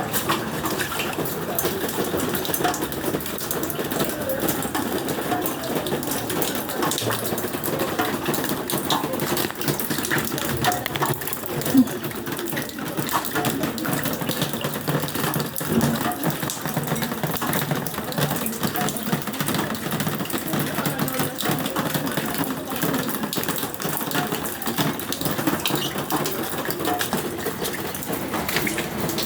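Heavy rain pouring down, with water splashing and running and many small drops pattering. One louder knock about twelve seconds in.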